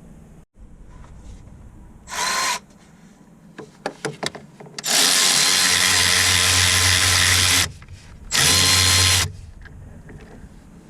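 Cordless power tool running in three bursts: a short one, a long one of about three seconds, then one of about a second, with small clicks of tool handling between.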